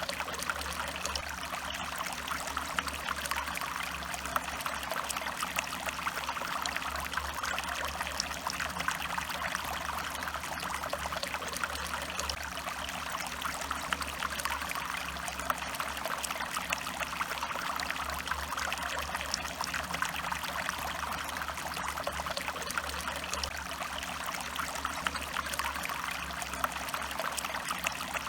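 A stream flowing steadily, a continuous trickling rush of water.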